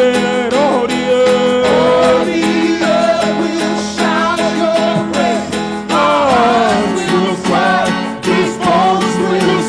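Live worship band music: a singing voice sliding up and down between notes over guitar and a steady drum beat, with no words.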